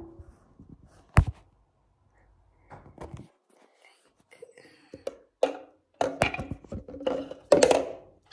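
Two sharp knocks, one right at the start and one about a second in, followed by irregular household handling noises that grow busier in the last few seconds.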